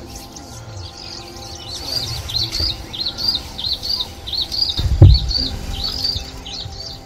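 A bird repeating a short, high chirp about three times a second, with a single low thump about five seconds in.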